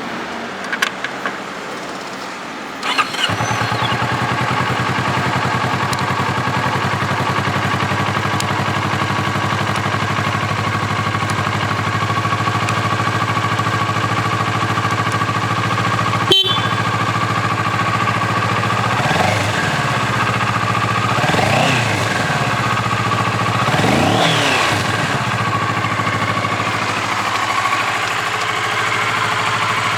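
Kawasaki Ninja 400 parallel-twin engine starting about three seconds in after a few clicks, then idling steadily. In the second half it is blipped three times, the revs rising and falling each time before dropping back to idle. A single sharp click comes about halfway through.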